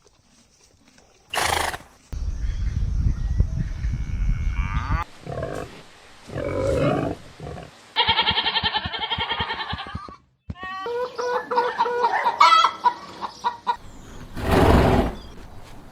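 Chickens clucking and calling, heard as a series of short clips cut one after another, some with rapid pulsed squawks.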